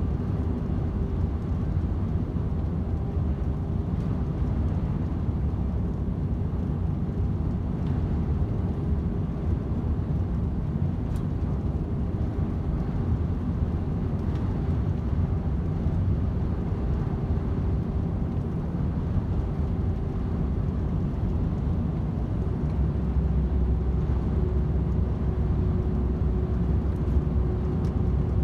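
DAF XF 510 truck driving steadily at motorway speed: an even, low drone of diesel engine and tyre-on-road noise, getting a little louder and deeper about three-quarters of the way through.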